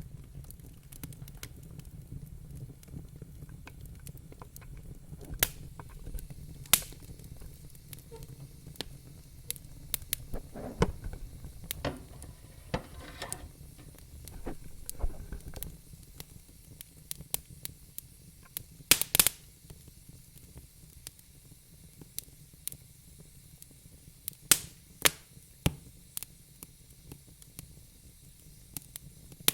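Fire in a fireplace crackling, with irregular sharp pops and snaps over a steady low rumble of the flames. A few louder snaps stand out, and there is a short hissing, sizzling stretch before the middle.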